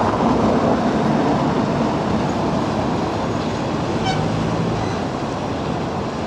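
A steady, loud mechanical rumble, like a vehicle or engine running.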